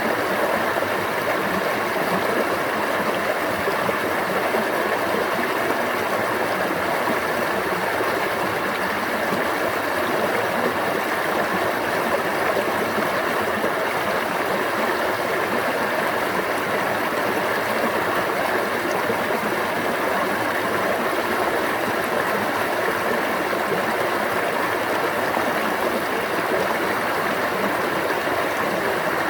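Water running in a stream, a steady, even rush and babble.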